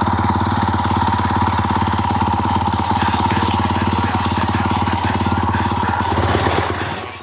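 Brand-new Honda CRF450R's single-cylinder four-stroke engine running steadily at a constant pitch while being run in, fading out near the end.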